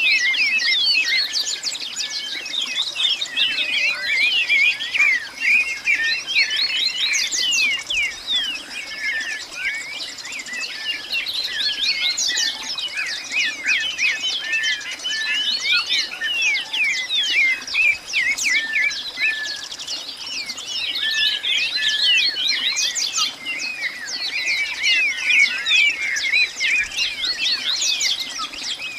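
Dense chorus of many birds chirping and twittering at once, rising and falling in intensity, over a steady high-pitched whine.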